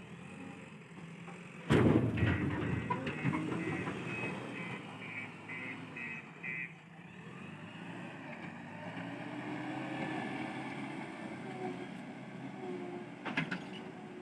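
JCB 3DX backhoe loader working with its diesel engine running, and a sudden loud heavy crash about two seconds in as a bucketload of mud drops into the truck body. The crash trails off over a few seconds while short beeps sound about twice a second. A sharp knock comes near the end.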